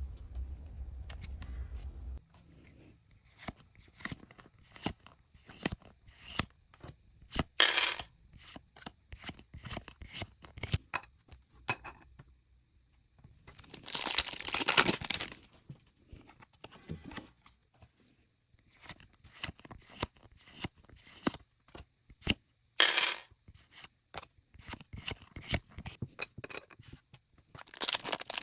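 Pokémon trading card packs and cards being handled. There are many small clicks and taps, with short bursts of foil-wrapper crinkling and tearing about a quarter of the way in, around the middle, and near the end.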